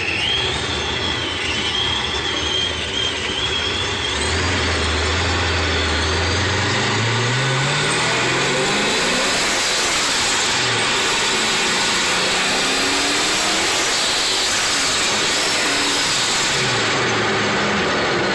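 Procharger-supercharged 331 stroker small-block Ford V8 in a 1991 Mustang, heard from inside the cabin under hard acceleration. The revs climb and drop back at each of several gear shifts, with a high supercharger whine above the engine.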